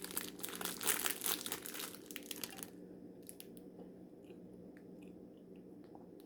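Crinkling and crackling of a plastic snack-cake wrapper being handled and pulled open, dense for about the first two and a half seconds, then only a few faint clicks. A faint steady hum sits underneath.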